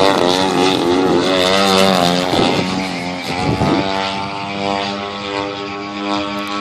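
Large-scale RC aerobatic plane's twin-cylinder two-stroke gasoline engine and propeller in flight. The pitch wavers up and down for the first four seconds as the plane maneuvers and passes, then holds steady.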